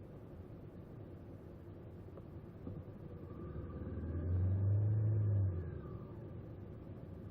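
A motor vehicle's engine over a steady low rumble, swelling to a loud peak about four to five seconds in and then dropping away quickly.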